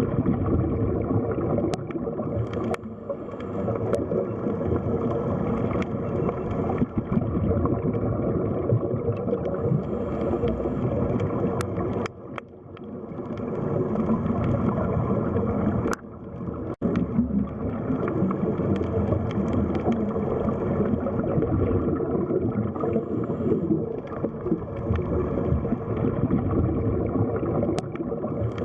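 Underwater ambience: a muffled, low rush of moving water with some gurgling, dropping away briefly twice.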